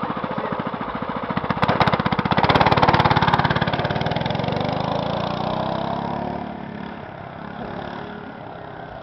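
Mini-bike's small engine running close by with a rapid, even firing beat, then revving up loudly about two seconds in. After the peak its pitch falls and it fades steadily.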